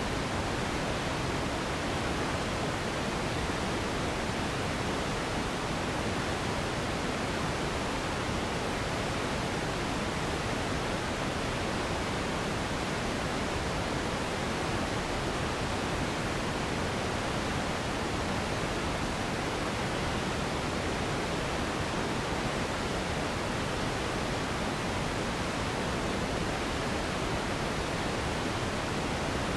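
Continuous pink noise, a steady, even hiss that never changes.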